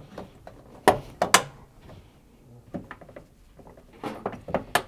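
Plastic drain-hose cover being pushed and snapped into its clips inside a washing machine cabinet: a string of sharp plastic clicks and knocks, the loudest few about a second in.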